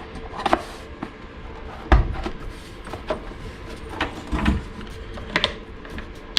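Plastic casing of a diesel air heater being handled and fitted into place: scattered clicks and knocks, the loudest a dull thump about two seconds in.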